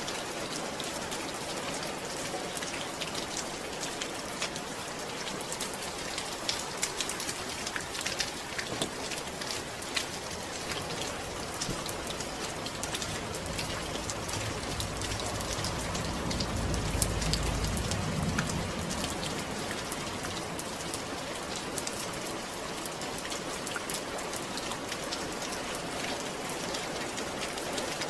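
Steady rain falling, with many single drops ticking sharply through the hiss. A low rumble swells and fades about halfway through.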